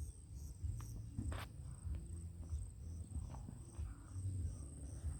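Outdoor rural ambience: insects trilling steadily in a high pitch, pulsing about three times a second, over a low rumble of wind or handling on the microphone, with a few faint clicks.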